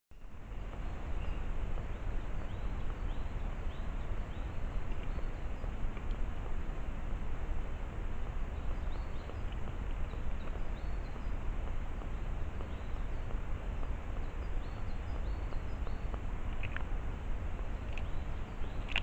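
Steady outdoor background noise with faint, short, high bird chirps scattered through it, and a few sharp ticks near the end.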